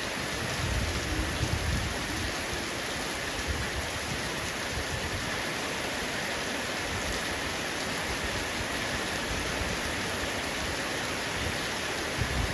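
Heavy rain pouring steadily on a roof, a dense even hiss of drops, with a low rumble swelling up about a second in and again near the end.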